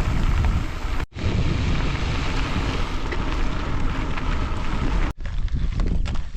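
Wind buffeting the microphone during a bike ride: a dense, heavy rumble. It breaks off briefly about a second in and again about five seconds in, and after the second break it is lighter, with scattered clicks.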